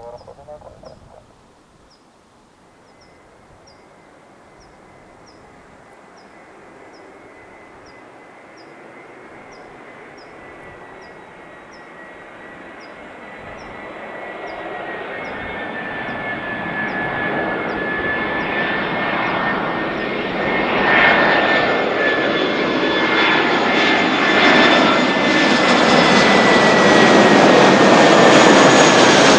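Airbus A320 jet airliner approaching to land, its engine noise building from faint to loud. A steady whine drops slightly in pitch as the aircraft nears.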